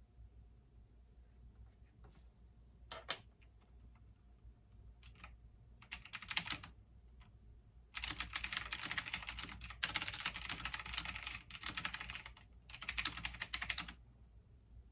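Typing on a computer keyboard: a few scattered keystrokes, a short burst about six seconds in, then fast continuous typing for about six seconds with a brief pause near the end.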